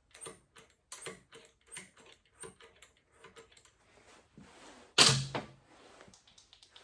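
Light metallic taps and clicks of hand tools working on an old compressor's flywheel and key, roughly two a second, then one much louder knock about five seconds in.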